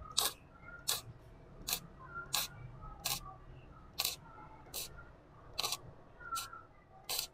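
Lucky 285 MIG welder spot-welding thin stainless steel at low power, in a run of about ten brief bursts of arc crackle, roughly one every three-quarters of a second.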